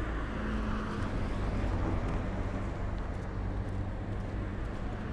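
Steady low rumble of distant road traffic, swelling slightly in the first couple of seconds.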